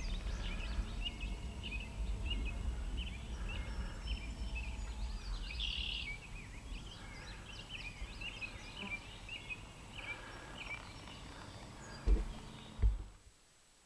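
Birds chirping and singing in short, rapid phrases over a low wind rumble. Two thumps come near the end, then the sound drops away almost completely.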